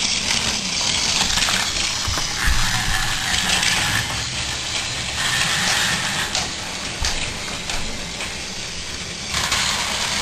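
Toy Thomas the Tank Engine and a toy car racing along a toy track: a steady mechanical rattling and whirring of small wheels and gears, with a few soft knocks.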